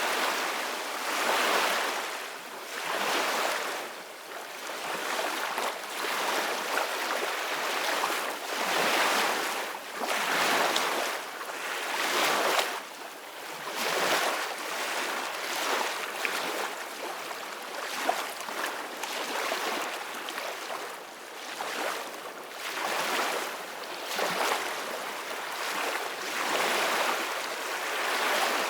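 Sea waves crashing and washing in repeated surges every second or two, with wind blowing over them.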